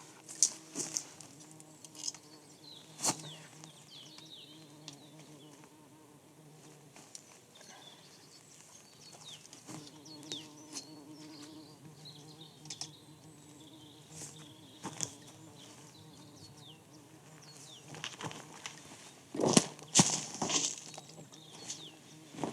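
A fly buzzing close by, its hum coming and going, with scattered sharp clicks and short high chirps, and a louder cluster of knocks near the end.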